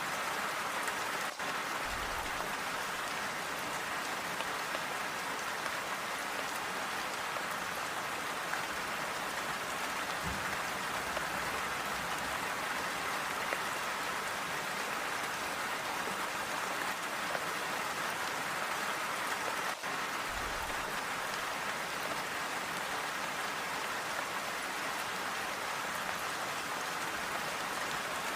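Steady, even rainfall with a dense patter of drops and no thunder.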